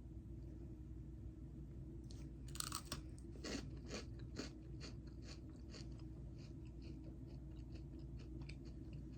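Close-up chewing of a Fujiya Home Pie, a crisp sugared pastry biscuit. After a quiet start, a first crunch comes about two and a half seconds in, then a run of short crunching chews, about two a second, that slowly grow fainter.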